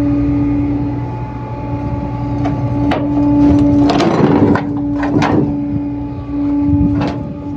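Flatbed tow truck running with a steady pitched hum, with several sudden metal clanks and rattles over it, around three, four, five and seven seconds in.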